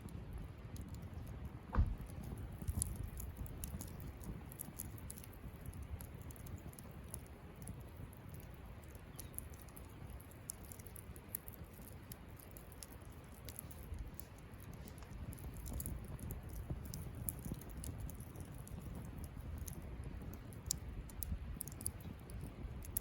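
Wood campfire crackling: frequent small snaps and ticks over a low rumble, with one louder pop about two seconds in.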